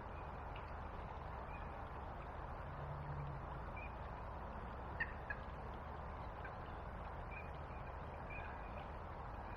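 Steady outdoor background noise on a small riverbank with faint, short bird calls scattered through it, and two sharp clicks about halfway through.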